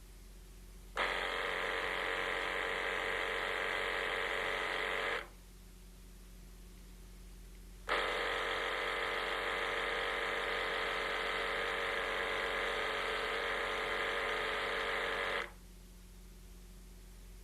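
Small electric motor of an Rx System 2 dental-instrument honing machine buzzing steadily as it drives the hone. It runs twice: switched on abruptly for about four seconds, off for nearly three, then on again for about seven and a half seconds before stopping.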